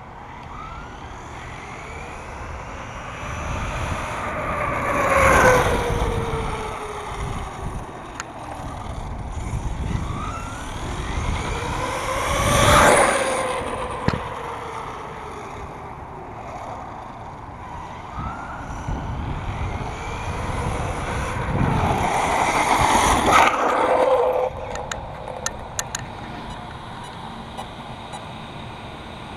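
Brushless electric 1/5-scale Redcat Rampage MT V3 monster truck running on 8S, driven past three times at speed. Each pass brings a motor whine that rises as it approaches and falls as it goes by, with tyre noise.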